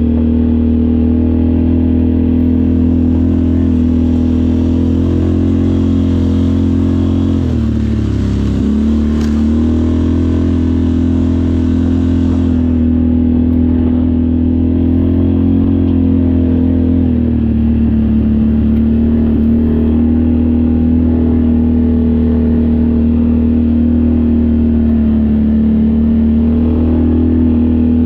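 ATV engine running steadily under way. About eight seconds in the engine note drops briefly and climbs back as the throttle changes, and from about seventeen seconds it settles a little lower.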